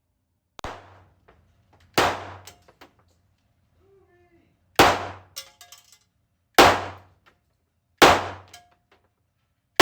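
Taurus G3 9mm pistol fired at an indoor range in slow single shots: a fainter report about half a second in, then four loud shots one and a half to three seconds apart, each ringing briefly in the room.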